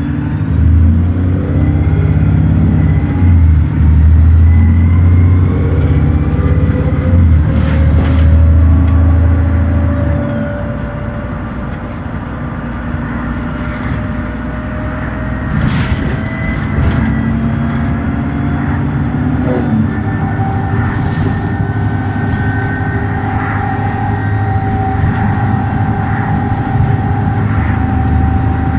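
Dennis Trident ALX400 double-decker bus's diesel engine pulling hard under kickdown, its pitch rising through the gears. The automatic gearbox changes up about ten seconds in and again near twenty seconds in, after which the engine runs steadily at speed.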